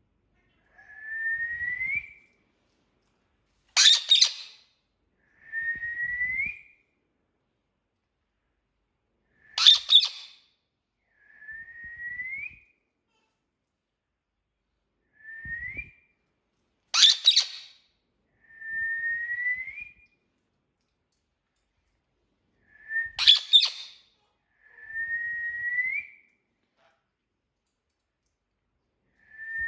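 Indian ringneck parrot calling: short whistles that rise in pitch alternate with brief, louder harsh screeches, in a repeating pattern about every six seconds.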